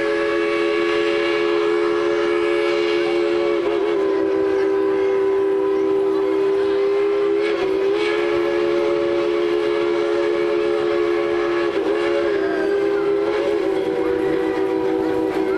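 Steam locomotive No. 190's whistle sounding one long, steady blast, a chord of several notes held throughout, wavering briefly a few times.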